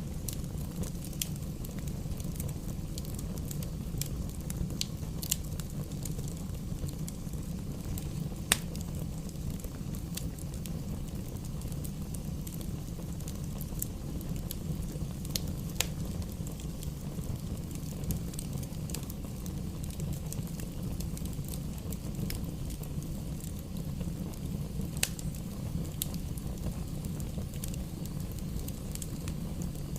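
Bonfire burning with a steady low rush and scattered sharp crackles and pops from the burning wood, one pop about a third of the way in louder than the rest.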